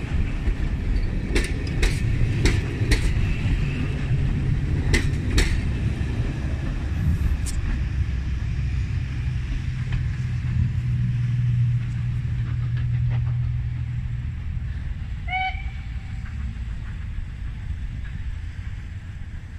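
A departing train's coaches rolling away along the track: the wheels click over rail joints several times in the first six seconds over a steady low rumble, which fades over the last few seconds as the train draws away. A short high tone sounds once about fifteen seconds in.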